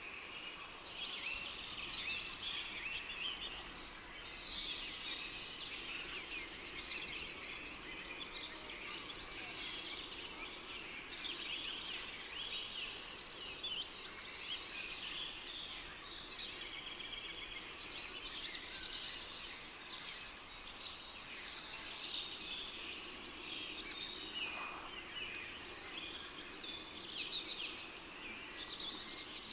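Cricket chirping in a steady high pulse about four times a second, pausing twice, over tropical rainforest ambience with birds calling here and there.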